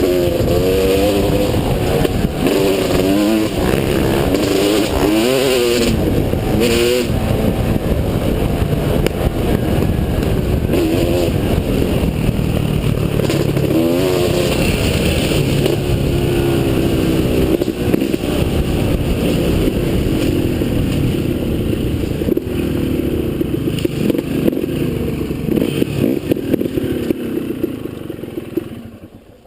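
Motocross bike engine revving hard, its pitch repeatedly rising and falling as the throttle is worked on the track; it fades out near the end.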